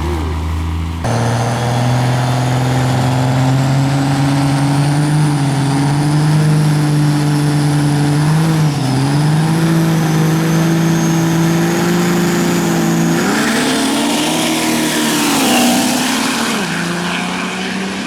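Diesel drag-race truck engine running hard at high revs with a thin, slowly rising turbo whine. The revs dip briefly near the middle, then a loud rushing hiss joins in and the pitch swings up and down for a few seconds before the revs drop near the end.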